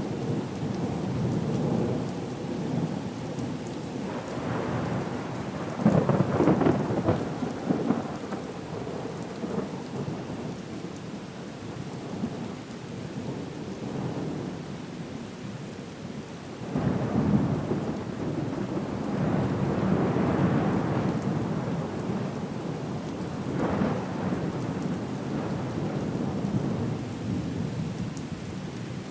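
Stormy sea ambience: a steady rush of rain and surf that swells into heavier rumbling surges several times, like breaking waves or rolling thunder.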